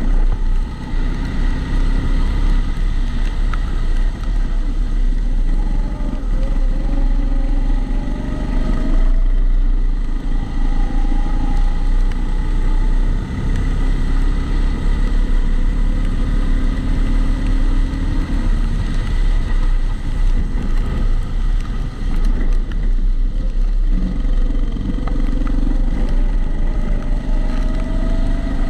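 Onboard sound of a Kombikart Eco kart engine under way, rising in pitch as it accelerates and dropping off twice as the throttle is lifted, about a third of the way in and again near the end. Over it runs a recurring extra noise, which the uploader puts down to the GoPro being in its housing.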